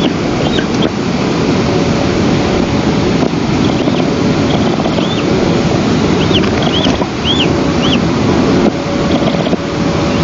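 Wind rushing steadily over an outdoor microphone. Above it, a bird gives short, high, arched call notes in scattered runs of two or three.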